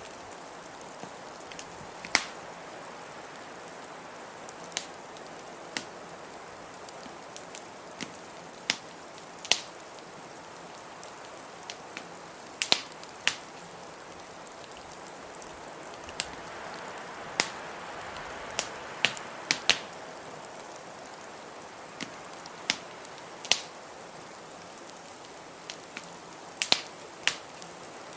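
Wood fire crackling with irregular sharp pops over a steady hiss of blizzard wind.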